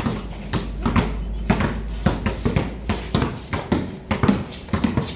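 Basketballs being dribbled, a quick irregular run of bounces.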